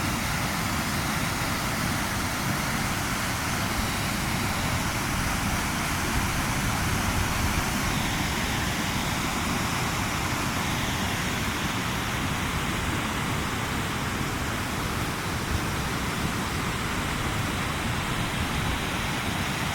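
Waterfall in high flow: a steady, even rush of falling water.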